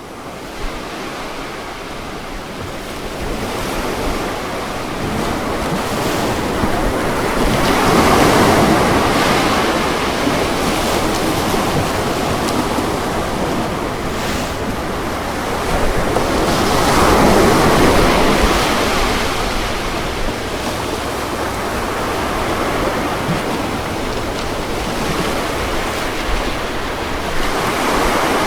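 Ocean surf washing onto a beach: a continuous rush of water that swells as waves break, about 8 and 17 seconds in and again near the end.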